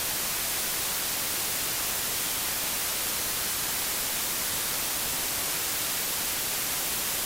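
Steady synthesized white noise: an even hiss across all frequencies with no pitch. It comes from Logic's white noise generator and from Absynth 5's FM oscillator, whose carrier and modulator are both noise wavetables with the FM index maxed.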